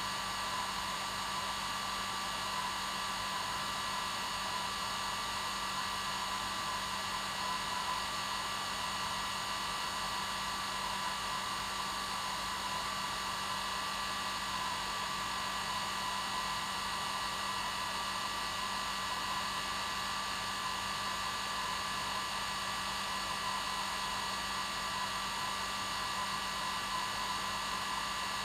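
Hair dryer running steadily: an unbroken rushing blow with a constant motor whine and a low hum, played as white noise to help a baby sleep.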